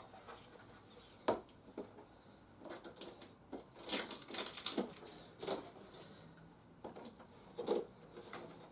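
Plastic toy parts and packaging being handled: scattered clicks, taps and rustles, with a busier run of rustling about four seconds in.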